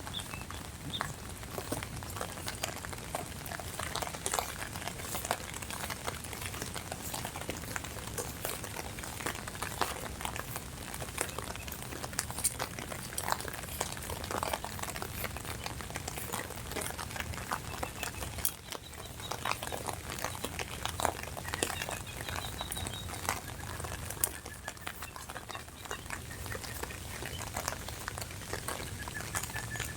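Steady rain with many separate drop hits pattering close by.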